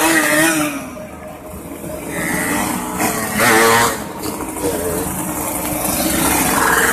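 Yamaha RX-King's two-stroke single-cylinder engine being revved, its pitch rising and falling, with one loud rev about three and a half seconds in.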